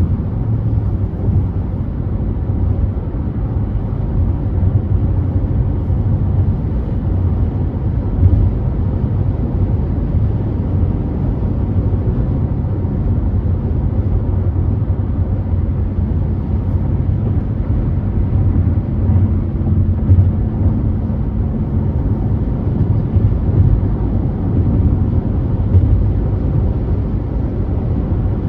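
Steady low rumble of a car driving on the freeway: tyre and engine noise, even throughout with no sharp events.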